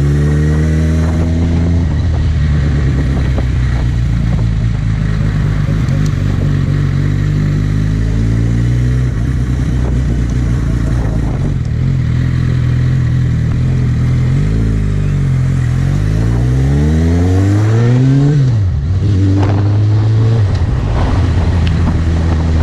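Suzuki GSX650F inline-four motorcycle engine running while riding, its pitch climbing in the first couple of seconds and then holding steady. Between about 14 and 19 seconds it rises and falls several times, with a sharp drop in pitch just after 18 seconds.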